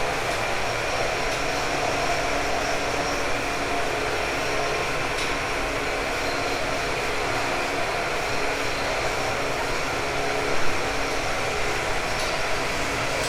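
JR East 189 series electric motor car with MT54 traction motors running along the line, heard from inside the car: a steady rumble and rail noise with a few steady whining tones and a few light clicks from the track.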